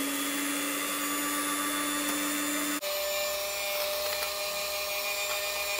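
Electric hand mixer running steadily, its beaters whisking eggs and sugar in a glass bowl. About three seconds in, the motor's hum jumps abruptly to a higher pitch and carries on.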